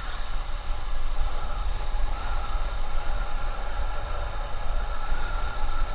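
Steady travelling noise from riding a motorbike along a highway: wind buffeting the microphone in a low rumble, with road and engine noise and a faint steady whine.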